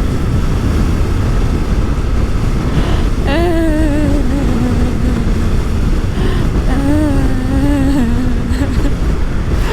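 Wind rush and engine noise from a Yamaha MT-03's parallel-twin engine at highway speed, heard from the rider's position. Over it the rider makes a wordless humming sound twice, a few seconds in and again about seven seconds in.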